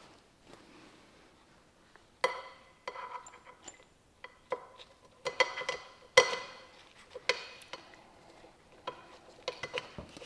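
Small metal parts and tools clinking against metal: a series of sharp clinks, several with a brief ring, the loudest a little after six seconds in.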